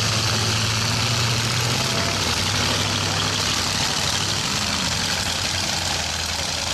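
Demolition derby truck engines running, their steady tone shifting lower about two seconds in, over a constant hiss.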